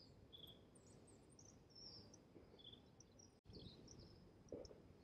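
Near silence, with faint short bird chirps scattered through it and one soft tap about four and a half seconds in.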